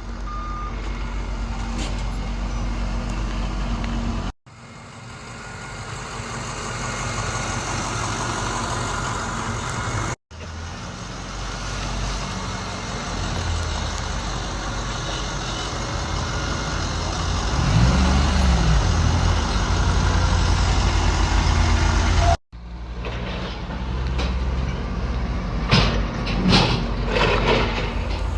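Box truck's engine running steadily. About eighteen seconds in, the engine pitch rises and falls once, and there are a few knocks near the end.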